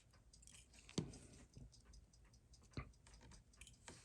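Near silence with a few faint, sharp clicks, the loudest about a second in, from small steel watch parts and tweezers being handled on the bench.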